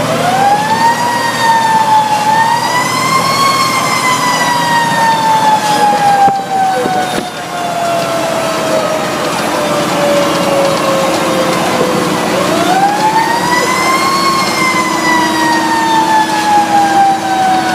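Fire truck siren winding up and slowly winding down twice, each time rising quickly to a high wail and then falling away over several seconds, over the steady running of the truck's engine.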